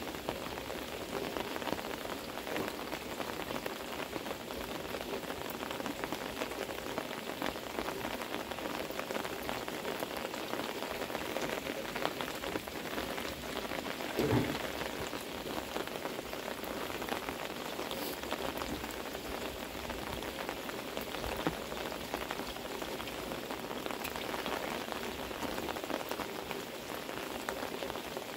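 Heavy pouring rain, a steady dense patter of drops. A single brief dull thump about halfway through stands out as the loudest moment.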